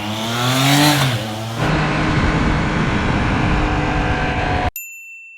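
Triumph Trident 660 motorcycles' three-cylinder engines accelerating away, the engine note rising in pitch and then dropping about a second in. Then a steady rushing noise, cut off suddenly near the end by a steady high electronic tone.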